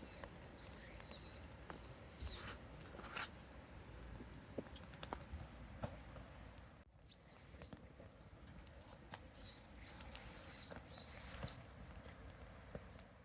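A bird calling over and over with short, arched, high chirps, over scattered light clicks and crackles.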